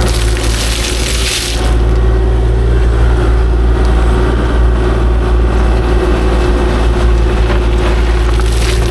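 Kubota KX040-4 mini excavator's diesel engine running steadily with a constant low drone, and a brief rush of scraping noise in the first couple of seconds.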